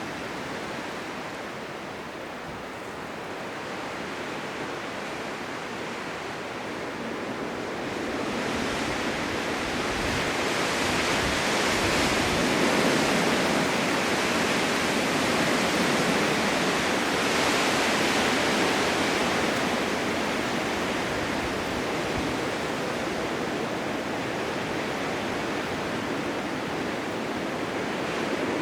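Blizzard wind rushing steadily. It swells into a stronger gust from about eight seconds in and eases off again after about twenty seconds.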